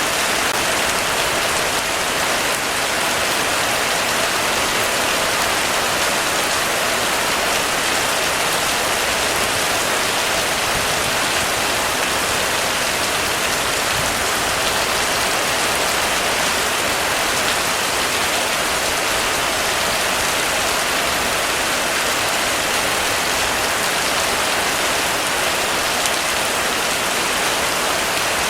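Heavy rain falling steadily on a roof, an even, unbroken hiss of drops with no pauses or changes.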